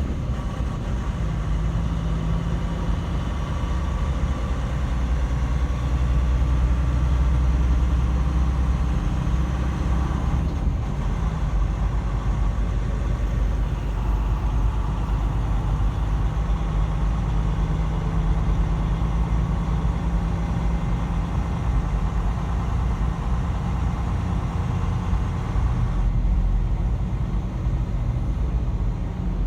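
Semi truck's diesel engine running at low speed, a steady deep drone whose hum shifts in pitch a couple of times.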